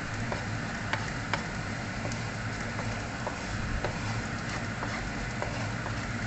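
Chopped onion and garlic sizzling in oil in a wok while a wooden spatula stirs them: a steady sizzle with scattered sharp ticks.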